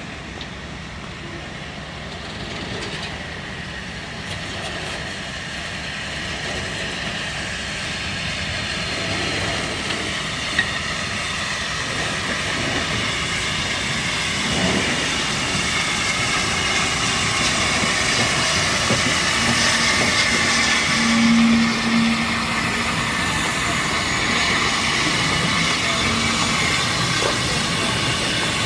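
Steam train approaching on the line, its running noise growing steadily louder, with one sharp click about ten seconds in.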